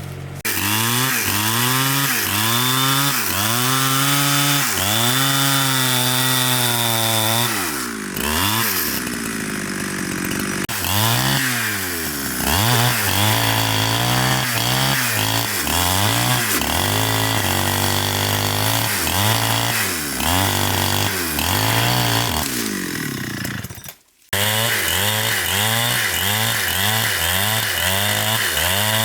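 Chainsaw engine running hard, its pitch rising and falling over and over as the throttle and load change. It breaks off for a split second about four-fifths of the way through, then carries on with quicker swings.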